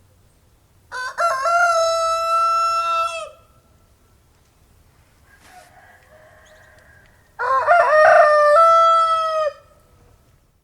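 A rooster crowing twice, each crow a single call held about two seconds, the second starting about four seconds after the first ends. A much fainter call sounds in between.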